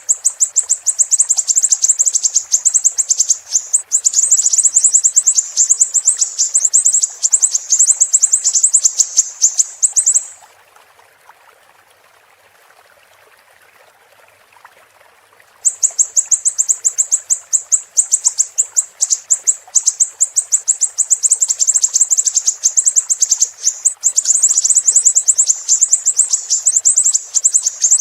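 Siri-siri bird singing: long runs of very rapid, high-pitched chirping notes. The song breaks off for about five seconds in the middle, leaving only a faint running-water background, then starts again.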